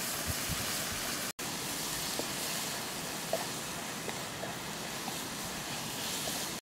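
Snails and vegetables sizzling as they are stir-fried in a wok, a steady hiss with a few light clicks of the spatula against the pan. The sound drops out for an instant about a second in.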